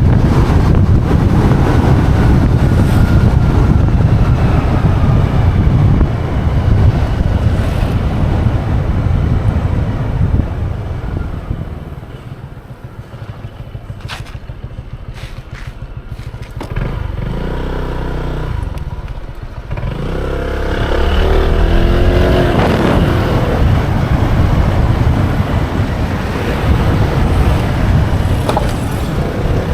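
Motorbike engine and wind rushing over the microphone while riding. About twelve seconds in the bike slows and the noise drops, with the engine near idle. Around twenty seconds in the engine revs up again and the bike accelerates away.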